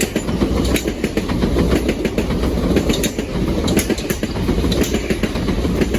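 Two coupled Southern Class 377 Electrostar electric multiple units passing through, a steady loud rumble with many sharp clacks of wheels over rail joints and points.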